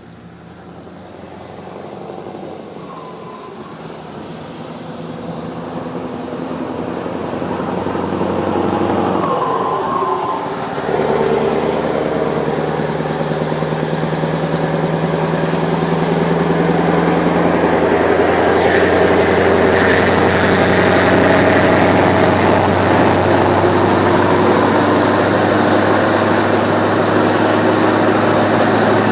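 Scania truck's diesel engine running under load, growing louder over the first ten seconds. Its note shifts about ten seconds in, then holds a steady, deep drone.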